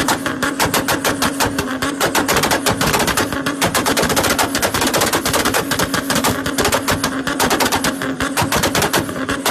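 Toyota Supra's 2JZ inline-six held at a steady high rev on a limiter, its exhaust popping in rapid, even bangs, about nine a second, like machine-gun fire over a constant engine tone.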